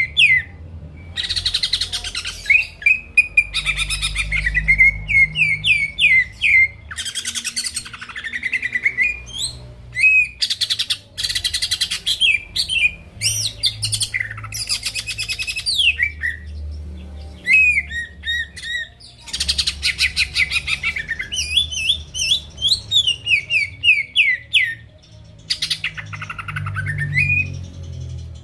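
Greater green leafbird (cucak ijo) in full song: rapid, varied phrases of sweeping whistled notes alternating with fast rattling trills, with short pauses between bursts.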